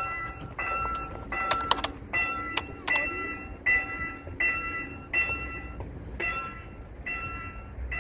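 Railway level-crossing warning bell dinging in a steady repeating rhythm, about one ring every three-quarters of a second, over a low rumble. A few sharp clicks come between about one and a half and three seconds in.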